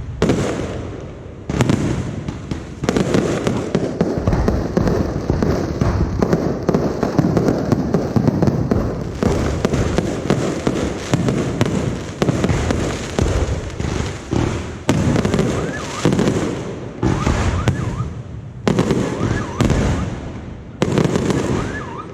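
Aerial fireworks display: a dense barrage of shell bursts and crackling, rapid overlapping bangs that run almost without a break, with only short dips in loudness.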